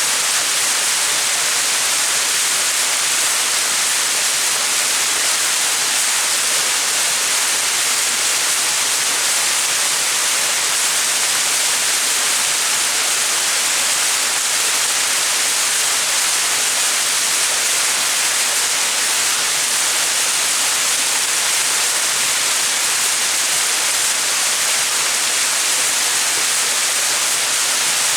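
Small mountain waterfall: water falling and splashing in a steady, even rush.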